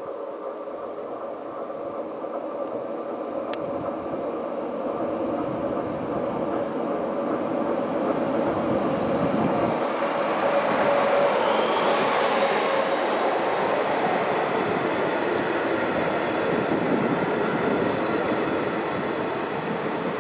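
SJ Rc-class electric locomotive with a train of passenger coaches running in along the platform, a steady whine over the rumble of wheels on rail. The sound grows louder as the locomotive draws level about halfway through, then the coaches roll past.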